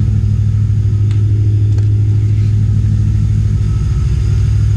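BMW E92 M3's ESS VT2-625 supercharged V8 idling steadily, a low even running sound with no revving.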